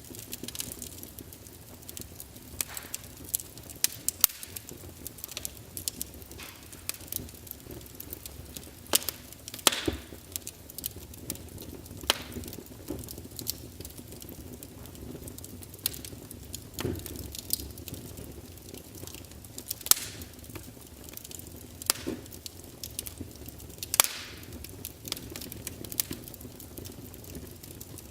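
Firewood burning in a fireplace, crackling with irregular sharp pops and snaps over a low, steady hiss of the flames.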